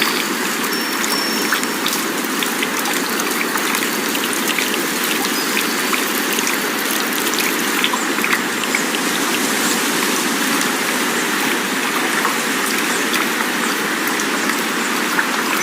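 Steady rushing wind noise with faint scattered ticks and no chime tones.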